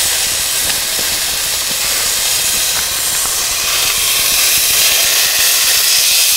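Marinated tuna steaks searing in hot oil in a skillet: a steady sizzle with a few faint crackles.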